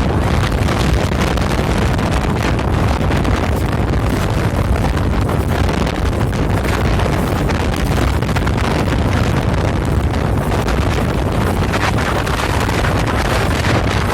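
Loud, steady wind buffeting the microphone on a moving boat, with a heavy low rumble underneath.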